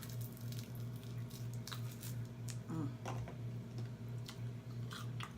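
Close-up chewing and wet mouth sounds of someone eating a chicken wing: irregular smacks and clicks, with a brief hum from the throat about three seconds in, over a steady low electrical hum.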